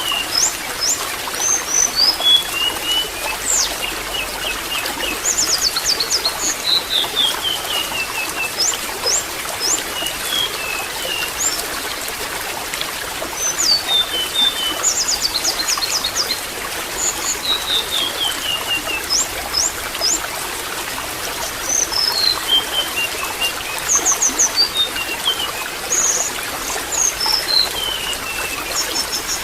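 Water trickling steadily, with birds chirping over it: short high chirps and, every several seconds, a quick run of notes falling in pitch.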